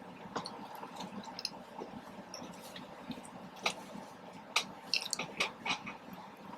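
Close-miked chewing of a soft chicken street taco: wet mouth sounds with scattered small smacks and clicks, bunched together a little past the middle.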